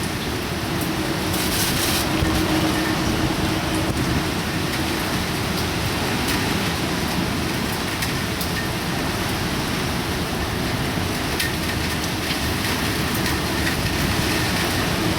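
Typhoon rain and wind: a steady, loud rush of heavy rain and wind noise.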